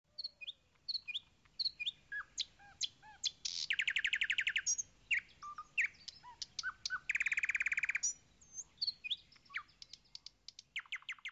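Songbirds singing: scattered chirps and short whistled notes, with a rapid trill of about a second around four seconds in, another around seven seconds in, and a shorter trill at the end.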